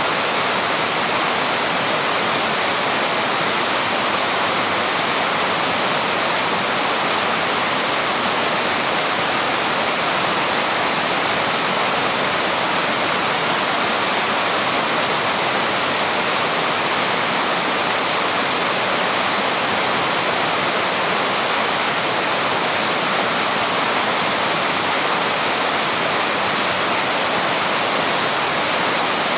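Waterfall: water pouring and splashing over rock in a steady, unbroken rush, full in the high and middle range with little deep rumble.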